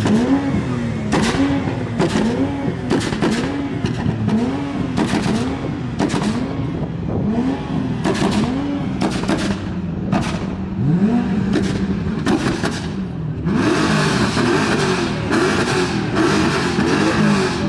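Car engine being revved over and over in short throttle blips, its pitch rising and falling about once a second. It settles briefly, then revs up again, and a louder, rougher noise joins near the end.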